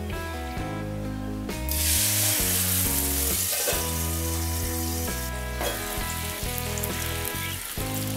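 Tandoori spice paste frying in hot oil in a non-stick pan, sizzling loudly. The sizzle starts about one and a half seconds in as the paste hits the oil and eases after about five seconds. Background music plays underneath.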